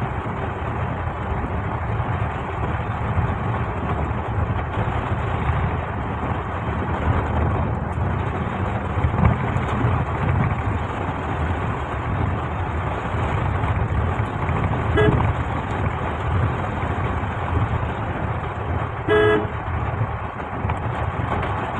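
Steady traffic and engine noise on a city road, with a short vehicle horn toot about fifteen seconds in and a longer horn blast a few seconds before the end.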